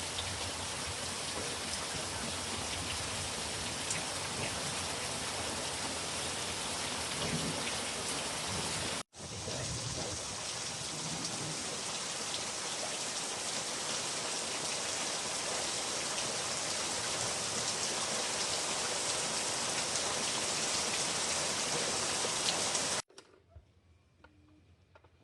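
Steady, heavy rain falling, a dense even hiss. It breaks off for an instant about nine seconds in and stops abruptly near the end.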